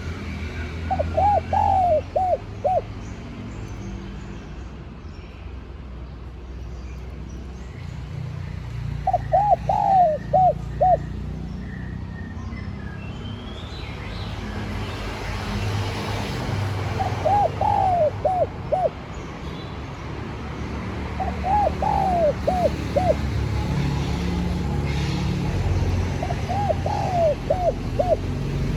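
Spotted dove cooing its song in five separate phrases, each a quick run of four or five coos, a few seconds apart. A low steady rumble lies underneath.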